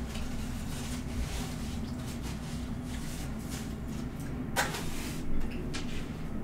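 Chewing and mouth sounds of someone eating baked beans with a plastic fork, with scattered sharper clicks and scrapes, the loudest about four and a half seconds in, over a steady low hum.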